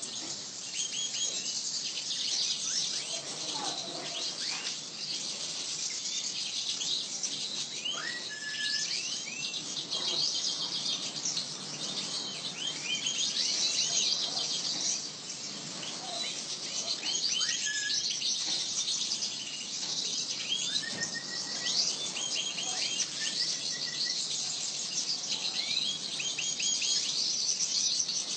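Many small birds chirping and twittering together in a dense, continuous chatter, with short rising call notes repeated now and then.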